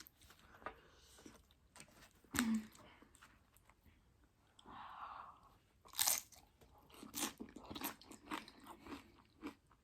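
Close-miked crunching and chewing of Doritos tortilla-chip nachos, with a few sharp crunches standing out about two and a half and six seconds in.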